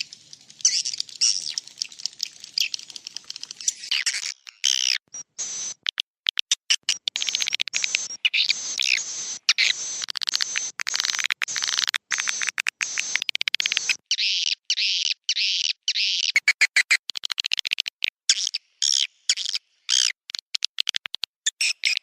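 Swiftlet roosting-call recording: dense, rapid high twittering chirps of many swiftlets, broken by frequent abrupt cuts. It is the lure call played in swiftlet houses to draw the birds in to roost.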